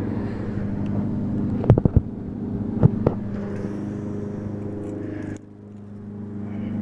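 1998 Dodge Ram 1500's 360 V8 idling on a cold start through true dual exhaust with shorty headers, no cats and glasspacks, a steady low rumble. A few sharp clicks come about two and three seconds in, and the engine sound drops suddenly about five seconds in, then builds back.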